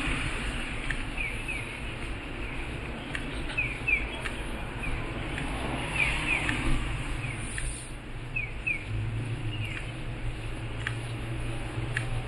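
Small birds chirping in short, quick, falling calls, mostly in pairs every couple of seconds, over a steady low rumble of distant traffic. A low steady hum joins about nine seconds in.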